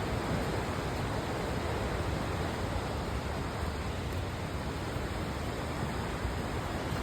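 River water rushing in a steady, even roar of flowing water, with no let-up.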